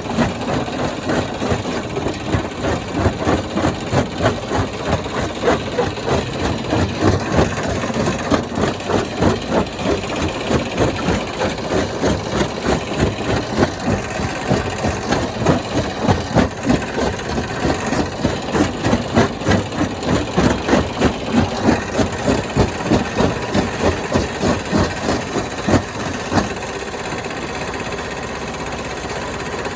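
Stone crusher machine running with a regular pulsing beat, about two to three pulses a second. The beat stops about 26 seconds in, leaving a steady mechanical hum.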